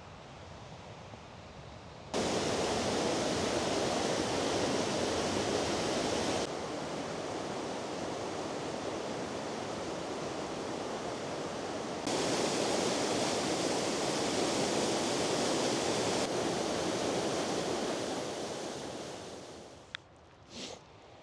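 Steady rushing of the Vøringsfossen waterfall. Its level jumps abruptly up or down several times and fades away near the end, where a sharp click and a short knock follow.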